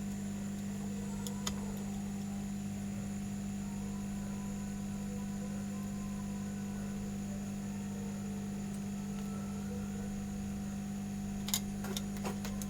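Steady electrical hum with a faint high whine, broken by a single light click early on and a few light clicks near the end.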